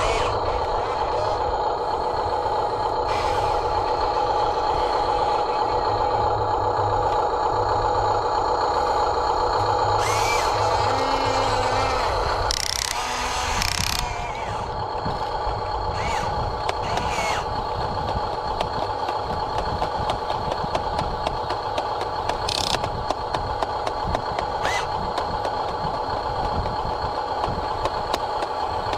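RC excavator's electric motors running with a steady whine while it digs sand, with a few short scraping and clicking sounds.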